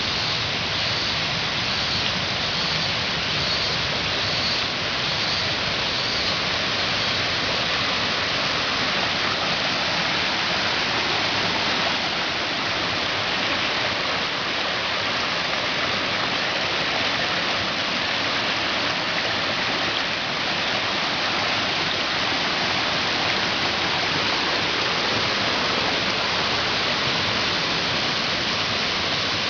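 Waterfall splashing steadily into its pool: an even, unbroken rush of falling water.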